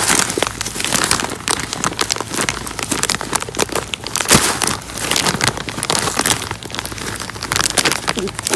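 Mixed bird seed being poured and handled while filling a bird feeder: a dense, continuous patter of many small clicks and crinkles.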